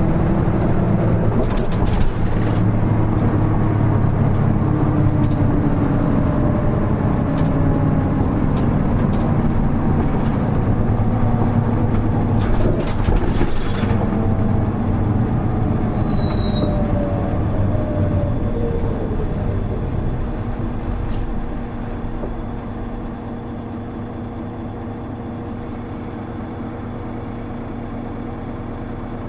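Hino Rainbow HR city bus heard from inside the cabin while under way, with a few rattling clicks. Its engine note falls as the bus slows. From about 22 seconds in it settles to a quieter, steady idle.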